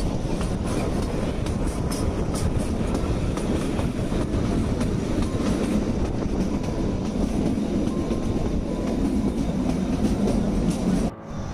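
Kalka–Shimla narrow-gauge toy train running along the track, heard from aboard a carriage: a steady rumble of wheels on rail with light clatter. It breaks off abruptly near the end.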